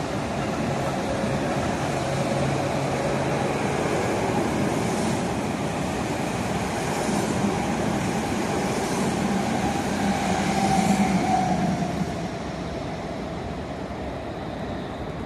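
Red-and-white Meitetsu electric commuter train running past below, its wheels clacking over rail joints about every two seconds over a steady rumble. The sound swells to its loudest about eleven seconds in, then drops away as the last car goes by.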